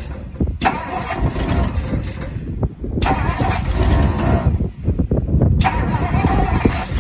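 1960 Ford Sunliner's engine cranking over on the starter without catching, as starting fluid is fed into the carburetor. Short hisses of aerosol starting-fluid spray come in three spurts over the cranking.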